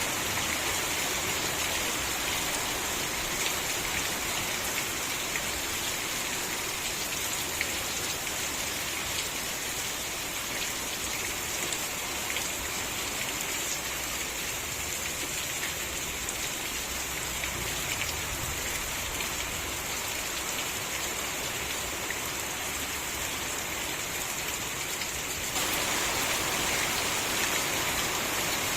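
Steady rain falling, with scattered drop ticks among the hiss; it turns a little heavier and louder near the end.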